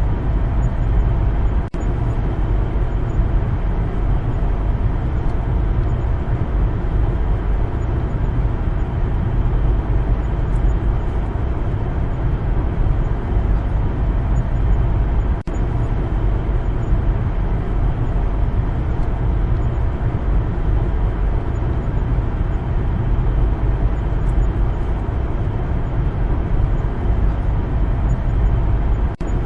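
Steady road noise of a car driving: a low rumble of tyres and engine with no changes in speed. The sound cuts out very briefly three times.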